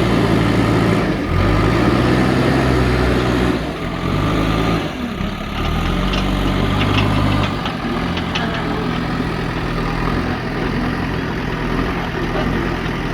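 JCB backhoe loader's diesel engine running, its engine note dropping and rising several times as the revs change while it works. A few light clicks come through in the middle.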